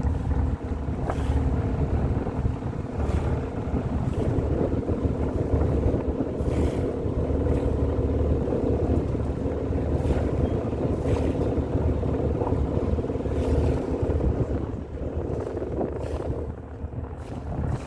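Tour boat's engine running steadily with a low hum, while wind buffets the microphone in gusts.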